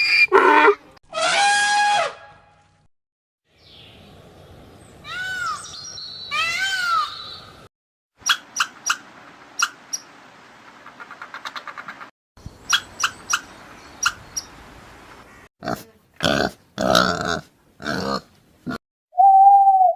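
A sequence of different animal calls, one after another with short silences between: a pitched call near the start, rising-and-falling calls a few seconds in, a long run of sharp clicks in the middle, loud calls later, and a short steady hoot at the end.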